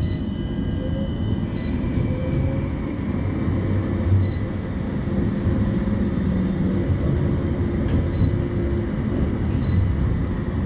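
CAF Urbos 3 tram moving off and running, heard from on board: a steady low rumble from the wheels and running gear, with a motor whine that rises slightly in pitch over the first couple of seconds as it pulls away.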